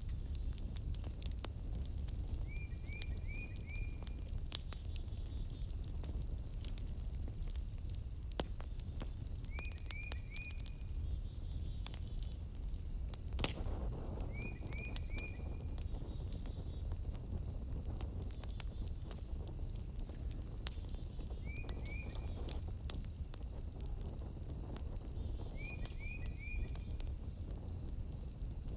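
Wood fire crackling and popping in a fireplace over a low steady rumble, with one louder pop about halfway through. A steady high drone runs underneath, and a short burst of three or four quick chirps comes five times.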